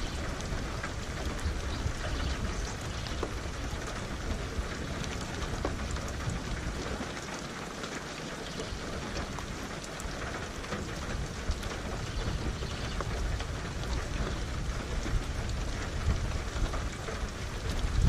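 Steady rainfall with many individual drops ticking on a surface, over a low rumble of thunder that eases off around the middle and builds again near the end.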